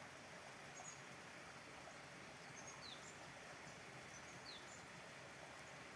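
Faint steady background hiss with a few short, high chirps of small birds scattered through, two of them quick downward slurs.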